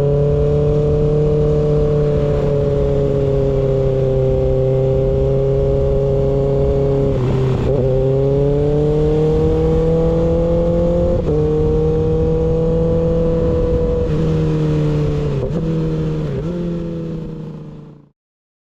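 Kawasaki ZX6R inline-four running through an unbaffled M4 GP19 slip-on exhaust while riding along. The engine note rises and falls slowly, with a few brief breaks about halfway, then twice near the end, over a low wind rumble. The sound fades out at the very end.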